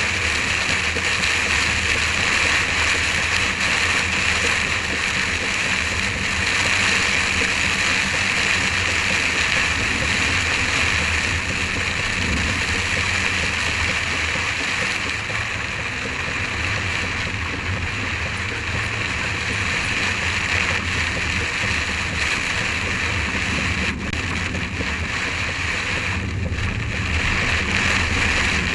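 Rain hitting a car's windscreen, heard inside the cabin as a steady static-like hiss, sped up to twice normal speed, over a low rumble from the moving car.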